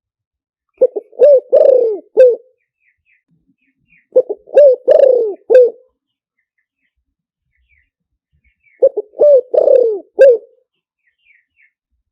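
Spotted dove cooing: three phrases of four or five notes, a few seconds apart, the longest note in each falling away at the end. Faint small-bird chirps sound between the phrases.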